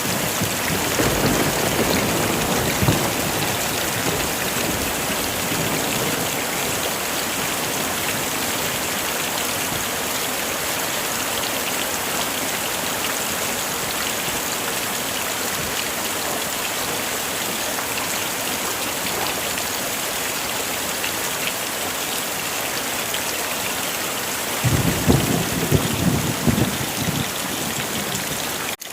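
Heavy rain falling steadily. Thunder rumbles at the start and again about 25 seconds in.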